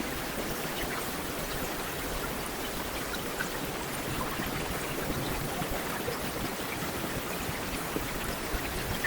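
Heavy rain falling steadily, an even hiss of rain with scattered individual drops ticking through it.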